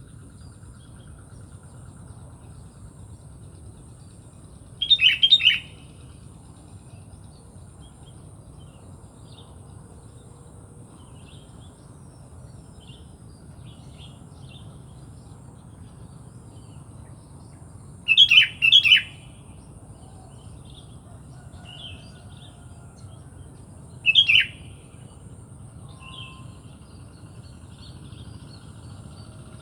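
Sooty-headed bulbul (kutilang) calling: three loud bursts of short chirping phrases, the middle one a quick double, with fainter calls of other birds scattered between. Beneath them runs a steady low background rumble.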